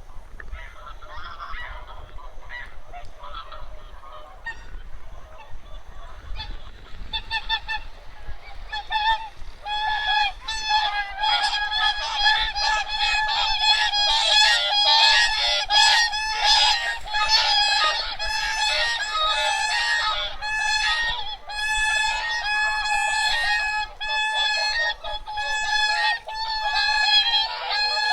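Large flock of wild geese and swans honking: scattered calls at first, then a dense, continuous chorus of overlapping honks from about a third of the way in.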